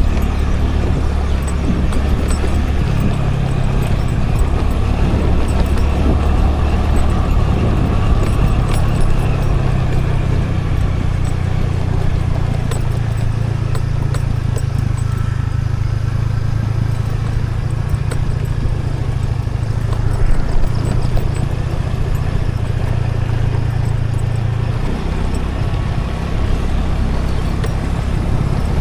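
Motor scooter being ridden: a steady low engine drone with road and wind noise on an action camera, the engine note shifting about three seconds in and again near the end.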